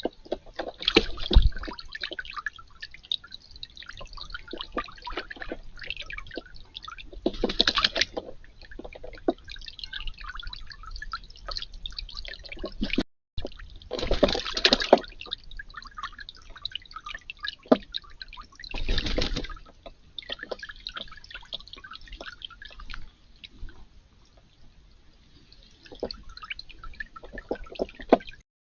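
Water dripping and splashing, with several louder splashes: one about a second in, then near the middle and again about two-thirds of the way through.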